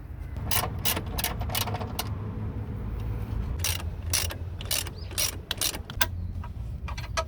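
Hand socket ratchet clicking in short runs of rapid strokes, turning bolts during an engine and transmission mount replacement, over a steady low hum.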